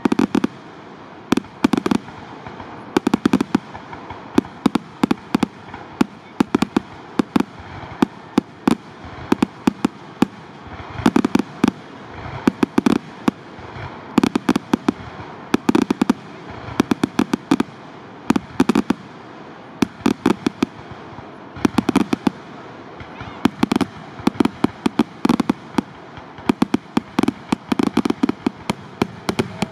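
Fireworks display finale: a dense run of sharp bangs from aerial shells bursting, coming in clusters every second or two without a break.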